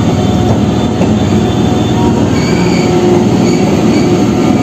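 Suburban electric local train (EMU) running on the rails, heard from aboard the coach as it passes through a low underpass. A dense, steady rumble of wheels on track is joined about halfway through by a high, thin metallic wheel squeal.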